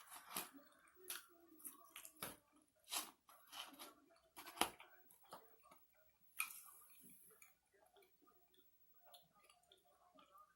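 Faint eating sounds: chewing and mouth clicks of someone eating a sloppy joe sandwich and fries. A string of short clicks and smacks runs through the first seven seconds, loudest a little before five seconds in, then fades to a few faint clicks.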